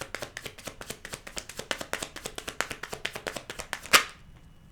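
A deck of tarot cards being shuffled by hand: rapid, even card slaps at about seven a second, ending with one louder slap about four seconds in, after which it goes quiet.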